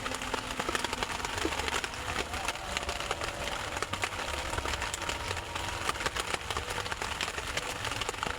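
Steady rain, a dense pattering of many small drop ticks.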